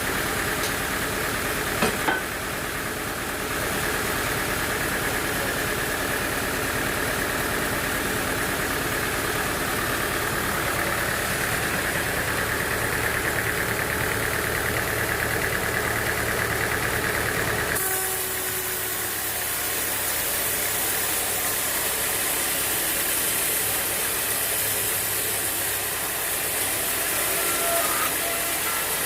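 Sawmill machinery running steadily. A couple of sharp clicks come about two seconds in, and about two-thirds of the way through the sound changes abruptly, losing its low rumble and turning into a brighter hiss.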